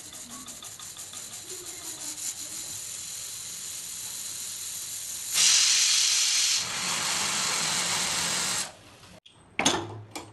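Food sizzling in hot oil in a pan, with fine crackling that builds steadily, then a sudden much louder burst of sizzling about five seconds in that keeps going before cutting off near the end, followed by a couple of brief loud noises.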